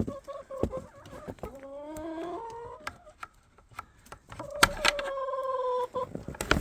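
Orpington roosters crowing: two long drawn-out calls, the second falling slightly at the end, with a few sharp clicks between them.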